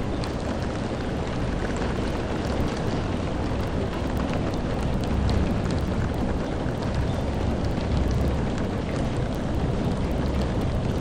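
Steady heavy rain, a dense even hiss with a deep rumble underneath and scattered sharp taps of individual drops.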